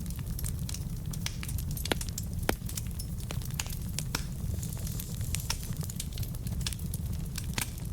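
Logs burning in a fireplace, crackling with frequent sharp pops over a steady low rumble. There are louder snaps about two and a half seconds in and again near the end.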